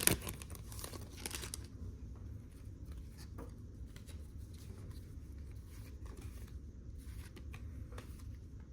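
A foil trading card pack wrapper crinkling and tearing open for the first second or two, then faint light clicks and rustles as the cards are handled.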